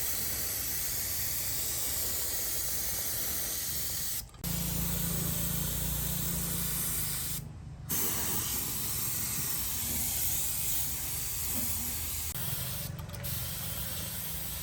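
Compressed air hissing steadily from a spray nozzle over a low hum, broken off briefly three times: about four seconds in, about seven and a half seconds in, and near the end.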